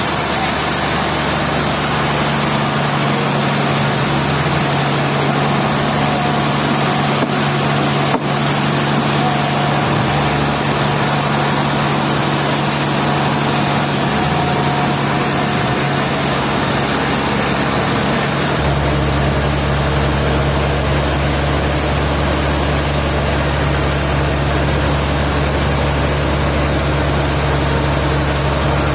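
Sawmill machinery engine running steadily with a constant hum, a single sharp click about eight seconds in, and a deeper rumble joining about two-thirds of the way through.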